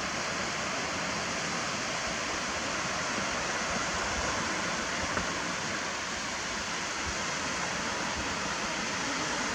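Steady rushing wash of sea waves breaking on the shore, an even hiss with no distinct breaks.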